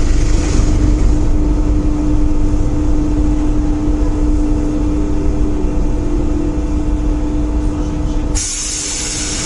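Paris Métro train running with a steady low rumble and a constant motor hum. About eight seconds in, the rumble drops away and a sudden loud hiss of released air begins.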